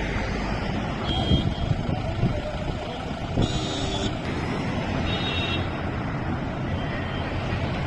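Slow-moving road traffic: steady engine and tyre noise with about four short vehicle horn honks, the loudest about three and a half seconds in.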